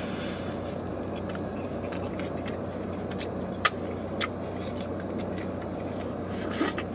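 A person chewing and biting into a sandwich over a steady low car-cabin hum. A few sharp clicks come through, the loudest just past halfway, and a short rustling burst near the end.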